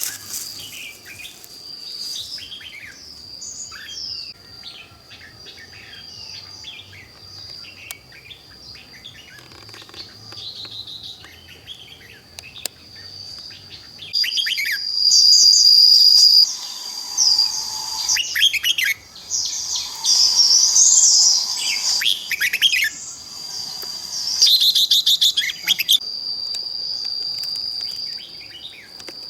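Small birds chirping and trilling over a steady high-pitched insect drone. About halfway through, the calls turn louder and come in short bursts of rapid trills.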